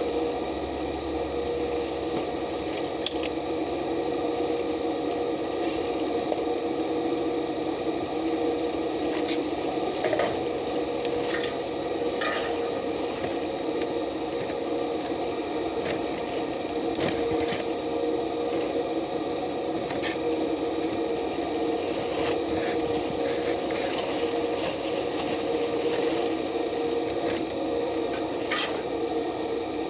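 Stick (arc) welding on steel, the electrode arc crackling and sizzling steadily, with scattered small pops.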